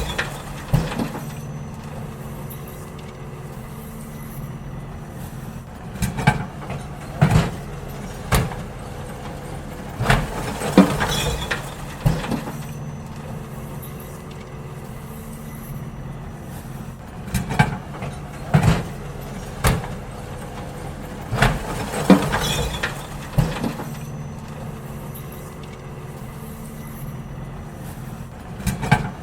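Garbage truck engine running steadily, broken every few seconds by clusters of loud clanks and bangs as wheelie bins are lifted, shaken out and set down.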